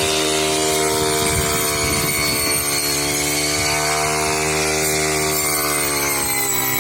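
Tractor engine running steadily, its pitch sagging briefly near the end before picking up again.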